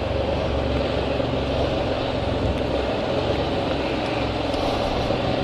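2014 Can-Am Spyder RT Limited's Rotax 1330 three-cylinder engine idling steadily.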